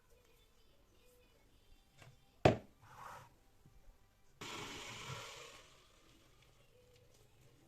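Household handling sounds: a single sharp knock, then a short rush of hissing noise lasting about a second and a half.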